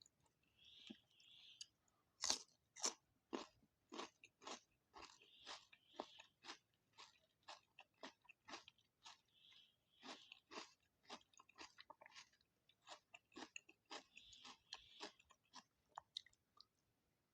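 Close-miked chewing of crispy fried food, likely Aloo 65 potato pieces: steady crunches about two to three a second, the sharpest about two seconds in, with a few softer wet mouth sounds between them.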